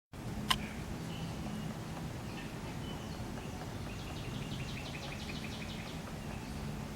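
Songbird calling outdoors: a few short high chirps, then a quick run of about a dozen repeated notes midway, over a steady low background hum. A sharp click about half a second in is the loudest sound.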